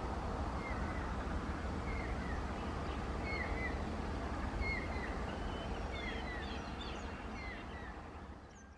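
Small birds chirping in short repeated calls over a steady low rumble, with the sound fading out near the end.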